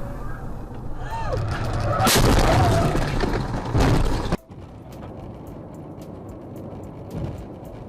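Car crash: a sudden loud impact about two seconds in, with crunching noise lasting about two seconds and a second bang just before the sound cuts off.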